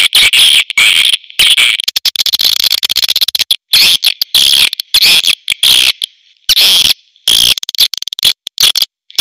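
Edible-nest swiftlets twittering: rapid, high chirping in loud bursts of about a second with short breaks between them. It is a swiftlet call recording of the kind played to lure swiftlets into a nesting house.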